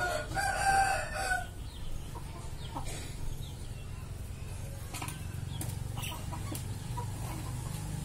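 A bird's long call of about a second and a half at the start, the loudest sound here. Scattered short chirps follow over a steady low hum.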